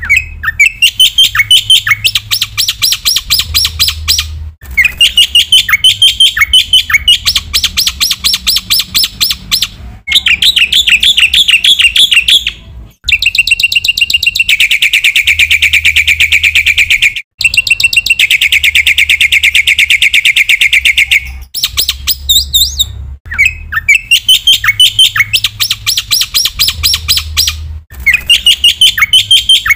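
Black-winged myna (jalak putih) singing loudly: runs of fast, sharp repeated chirps, with a long buzzy rattling trill in the middle, and phrases broken by short abrupt pauses.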